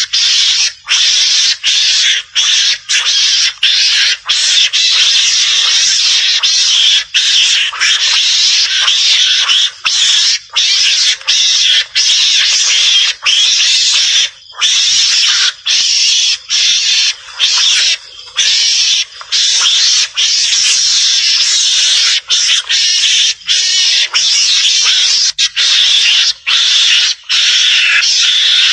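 Recorded calls of a Javan mongoose (garangan), played as a hunting lure: a harsh, hissing-like noisy call that runs almost without pause, broken by short gaps about once a second.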